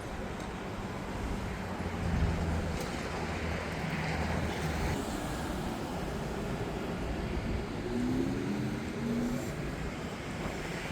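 Steady roar of a jet airliner's engines, with wind buffeting the microphone.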